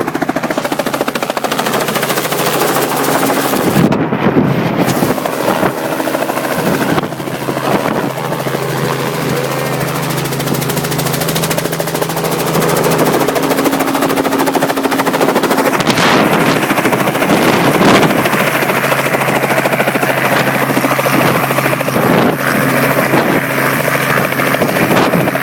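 Robinson R44 Clipper II helicopter running: a fast, steady chop of the main rotor blades over the drone of its six-cylinder Lycoming piston engine, with a few brief louder thumps along the way.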